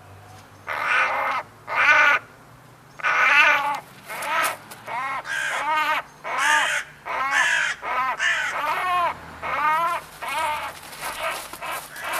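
Crow cawing repeatedly, a series of harsh calls that starts about a second in and comes faster and closer together toward the end.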